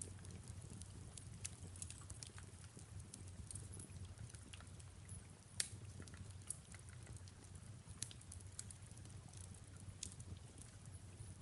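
Faint fireplace ambience: wood fire crackling with scattered small pops, one sharper pop about five and a half seconds in, over a low steady rumble and a soft hiss of rain.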